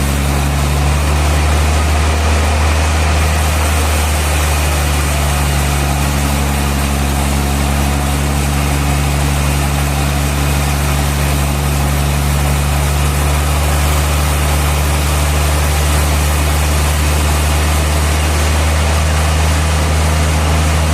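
Sawmill machinery running steadily: an even, low engine drone with a constant hiss over it and no sudden changes.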